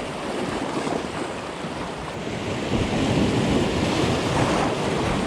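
Sea waves surging and washing, with wind buffeting the microphone; the surge swells louder about halfway through.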